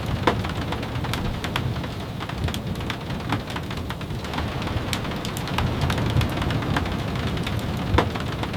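Steady rain falling, with a dense low rumble underneath and scattered sharp ticks of single drops, two louder ticks about a quarter second in and near the end.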